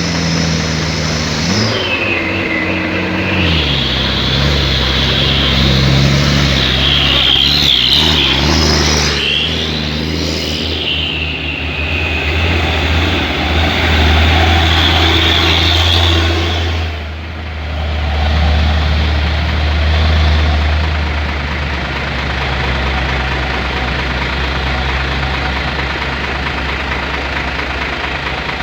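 Hino 500 truck's diesel engine running under load, its pitch shifting in the first few seconds, with a high whine rising and falling over it through roughly the first half and a brief drop in level about two-thirds of the way through.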